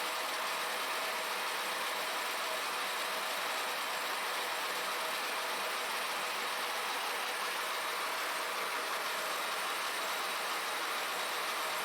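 Steady, even machine noise with no change in pace or pitch, a mostly hissing, whirring sound without much low rumble.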